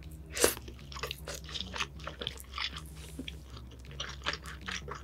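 Chewing a mouthful of egg sushi, close-miked: one loud bite about half a second in, then a quick run of mouth clicks and smacks as it is chewed.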